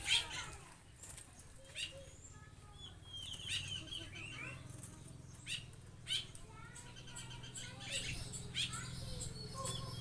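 A small bird trapped in a wire mesh trap cage, flapping its wings against the cage in repeated short bursts, with short high chirps in between.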